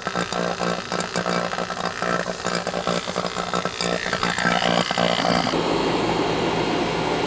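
Air-conditioning equipment running: a steady motor hum with clicking and clattering, then about five and a half seconds in a steady rushing of air sets in and keeps going.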